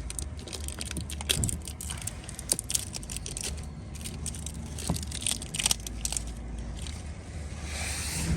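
Scattered small metallic clicks and clatters of tools and parts being handled, over a steady low hum.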